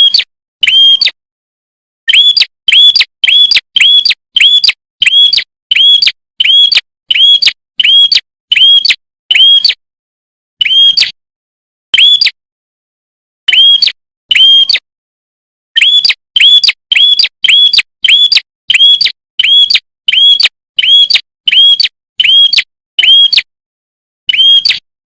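Red-headed prenjak (a small warbler-type songbird) calling in a rapid series of loud, identical sharp chips, about two a second, in runs with short pauses between.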